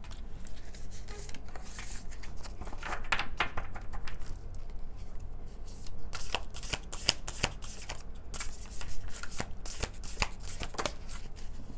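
Tarot cards being shuffled and handled, a run of quick irregular flicks and riffles of card stock, over a faint low hum.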